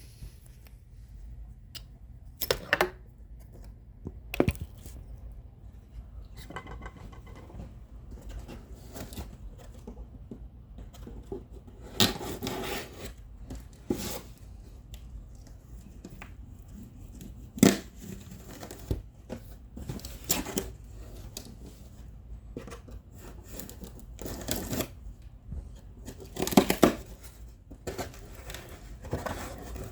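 A cardboard shipping box being opened and its packaging handled: intermittent tearing, rustling and sharp knocks, with a few longer rips.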